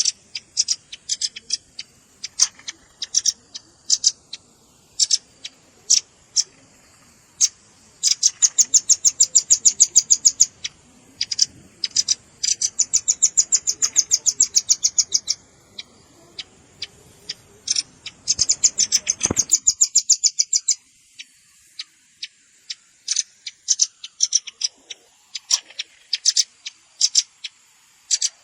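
Velvet-fronted nuthatch calls played as a bird lure: sharp, high single chips, broken three times by fast rattling trills that each last two to three seconds.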